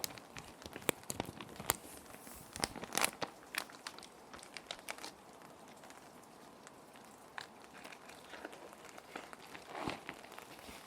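Clear plastic sheet protectors crinkling and crackling as they are handled and sheets are slid into them, busiest in the first few seconds and again near the end. A faint steady rain track runs underneath.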